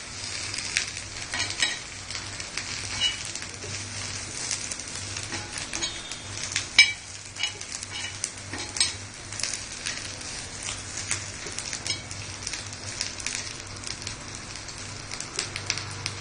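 Okra pieces roasting on a hot tawa: a steady sizzle with scattered crackles and light taps as the pieces are turned over by hand, with one sharper tap about seven seconds in.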